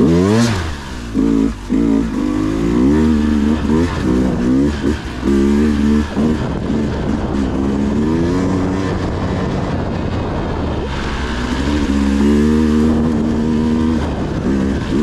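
Dirt bike engine revving in repeated short bursts, its pitch rising and falling with the throttle, with a steadier stretch in the middle.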